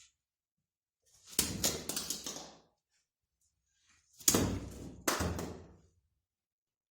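Twice, a thrown 3D-printed batarang fitted with utility knife blades strikes its target with a sharp thunk, then clatters and bounces for a second or so; the two throws are separated by dead silence.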